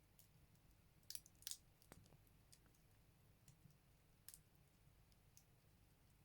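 Firewood crackling in a Buleryan wood stove: faint, scattered snaps, the loudest two close together about a second in and another about four seconds in.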